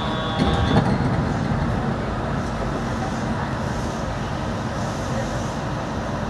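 Yurikamome rubber-tyred automated guideway train running, a steady rumble throughout. About half a second in there is a brief thump, and a short high tone stops just before the one-second mark.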